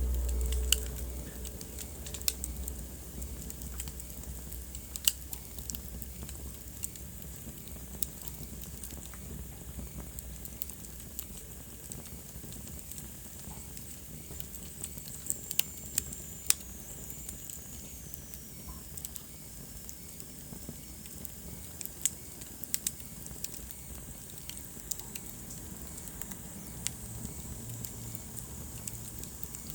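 Wood fire burning in a fireplace: irregular sharp crackles and pops over a steady soft hiss, with a low rumble in the first couple of seconds.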